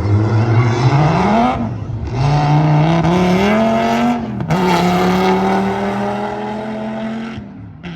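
A performance car's engine accelerating hard from a launch, its revs climbing steeply and dropping back at two gear shifts, then climbing more slowly in a higher gear before falling away near the end.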